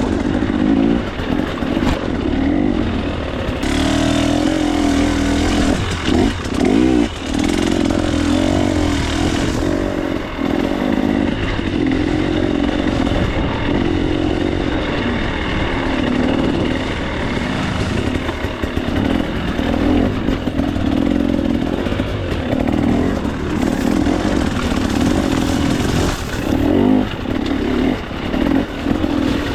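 KTM 300 XC-W's single-cylinder two-stroke engine heard from on board, revving up and down continuously as the dirt bike is ridden along tight trail, with short throttle chops and surges.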